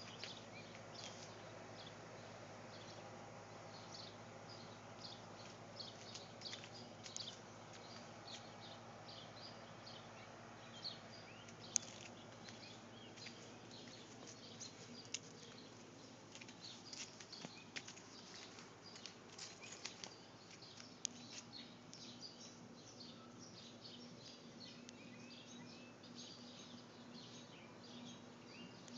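Birds chirping, many short high calls scattered throughout, over a faint steady background hum, with a sharp click about twelve seconds in.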